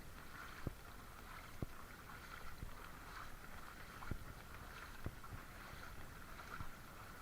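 Footsteps wading through shallow floodwater, a soft splash roughly once a second over a steady hiss.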